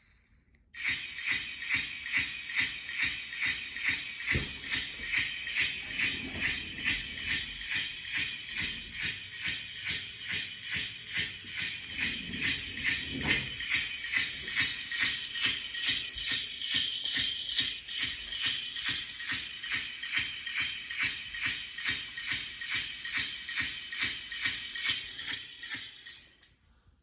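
Jingle bells shaken in a fast, steady rhythm, loud and bright, stopping suddenly near the end.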